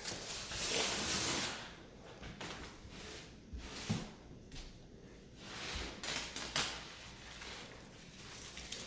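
Damp sponge wiping over freshly grouted tile, in several separate gritty rubbing strokes, with a couple of light knocks. The grinding sound of the sponge means there is still grit from the grout in it.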